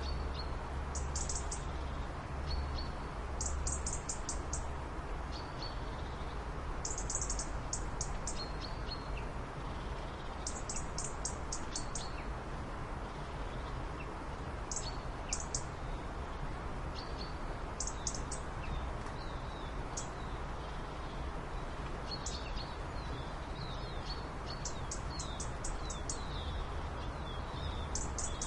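Small birds chirping: quick high bursts of several notes, repeated every second or two, over a steady low background noise.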